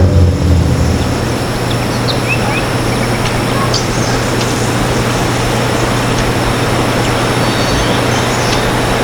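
A steady rushing noise with a low hum throughout, and a few short, high bird chirps scattered through it.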